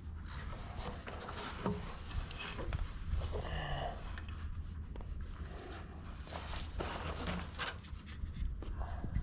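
Hands working a stiff, cold rubber boot over a tractor headlight bulb's connector prongs: rustling, small clicks and a brief squeak about three and a half seconds in, over a steady low hum.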